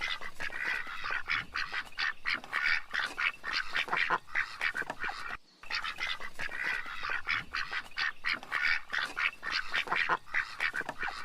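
A flock of birds calling rapidly and continuously, many short calls overlapping, with a brief break about five and a half seconds in.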